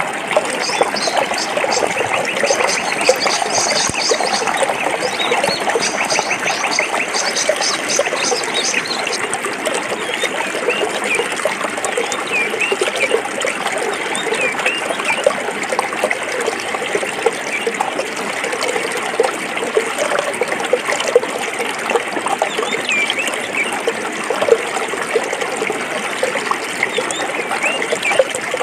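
Forest stream babbling and gurgling steadily over rocks. A high, rapid trill sounds over the water for the first third or so, and short chirps come and go after it.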